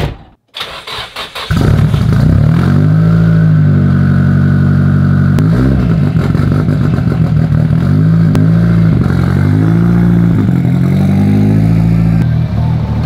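Nissan 200SX S13 drift car's engine: the starter cranks briefly, the engine catches about a second and a half in, and it runs loud with a few short blips of the throttle.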